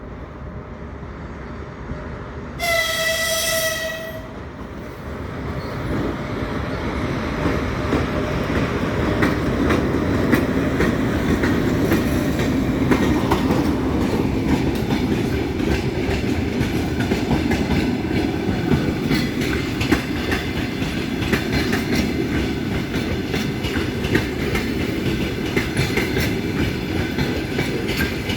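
EP1 electric locomotive sounds one short whistle about three seconds in, then the passenger train pulls away and rolls by, its running noise building up and holding steady with a run of wheel clicks over the rail joints.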